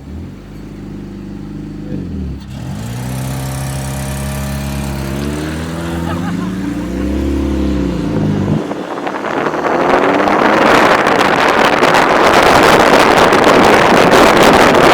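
Car engine accelerating hard: the revs dip at a gear shift about two seconds in, climb again, then cut off abruptly about eight and a half seconds in. After that a loud rushing noise, like wind on the microphone, keeps growing.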